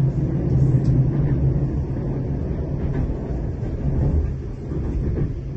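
Train running, heard from inside the carriage: a steady low rumble with a hum that fades about halfway through.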